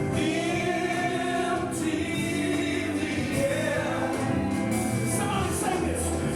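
Gospel worship song: voices singing long, held notes over steady instrumental accompaniment.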